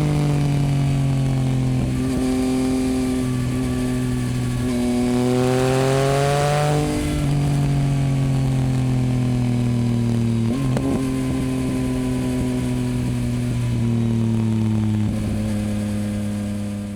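2024 Yamaha MT-09's 890 cc inline-three engine running through a Dominator HP8 aftermarket exhaust while riding. The engine note holds fairly steady with slow drifts, rises for a couple of seconds about five seconds in, and has brief breaks with a drop in pitch near eleven and fifteen seconds.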